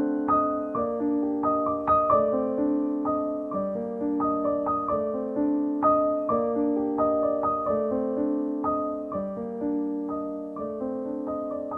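Soft background piano music: a gentle melody of notes struck several times a second over sustained chords.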